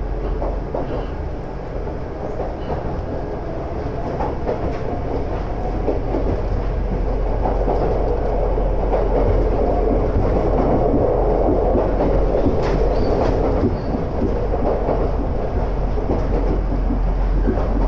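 Running noise inside a converted ex-Tokyu electric train car: a steady rumble of wheels on rail with a few sharp clicks, growing louder over the first several seconds and then holding.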